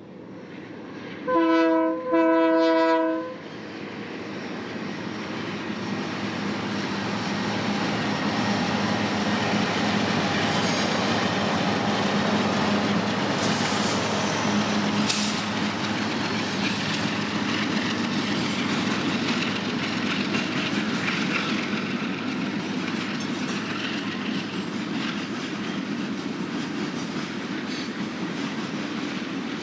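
Union Pacific freight train locomotive horn sounding two short blasts, the second a little longer, followed by the train passing with a steady rumble and wheel clatter on the rails and brief high squeals.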